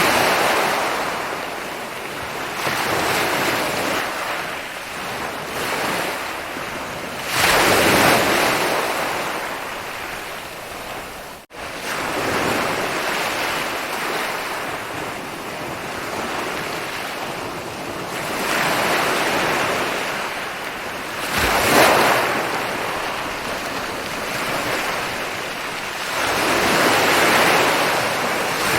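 Ocean waves rolling in and breaking on a beach, the wash swelling and falling back every few seconds. The two largest breakers come about a quarter of the way in and about three quarters of the way in. The sound cuts out for an instant shortly before the middle.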